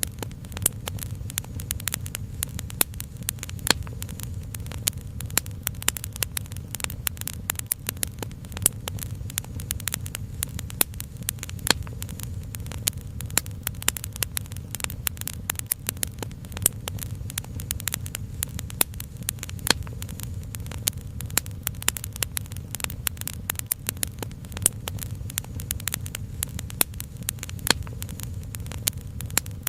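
Wood fire crackling with dense, irregular snaps and pops over a steady low rumble.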